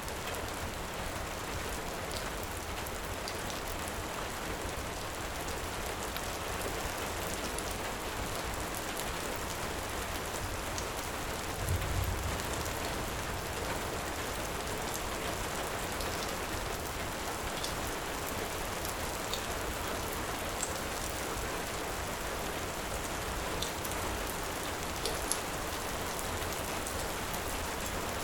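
Heavy rain falling steadily, with scattered small crackles and pops of a wood fire. A brief low thump about twelve seconds in.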